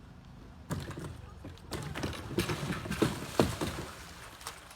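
Voices and commotion, with a sudden start a little under a second in and two sharp knocks about three seconds in.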